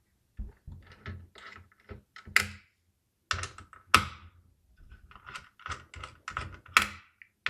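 Irregular small clicks and clacks of hard parts being handled on a motherboard, about a dozen separate taps, a few louder, as the stock AM5 CPU socket retention bracket is taken off.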